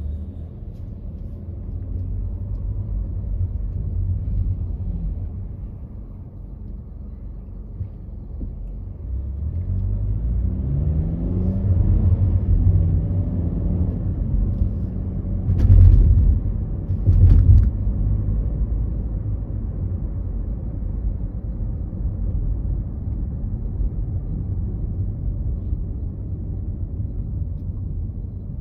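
Steady low road and engine rumble of a car driving on the freeway. A pitch glides up and down partway through, and two sharp thumps come about a second and a half apart.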